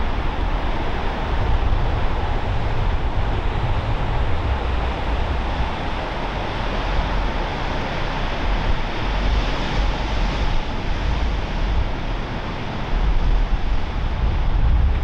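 Wind buffeting the microphone, an uneven low rumble over a steady rushing noise that swells slightly about ten seconds in.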